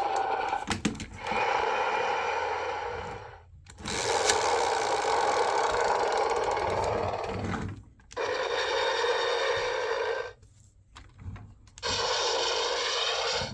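VTech Switch & Go Dinos velociraptor helicopter toy playing its electronic sound effects through its small speaker. The sound comes in stretches of a few seconds with short breaks between them.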